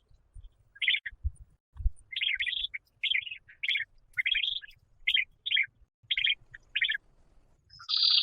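A bird chirping: a run of short, clipped chirps, about one or two a second, ending in a longer, louder call near the end.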